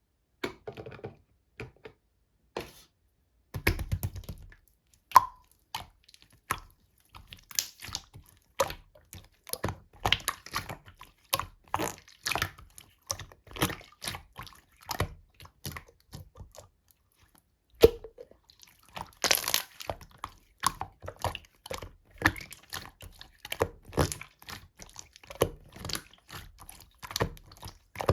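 Slime being squeezed and pressed by hand, making a steady run of small wet clicks, pops and squishes at an irregular pace.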